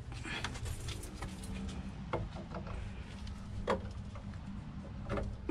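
Newly installed sump pump running with a steady low hum as it empties the pit, with a few faint knocks.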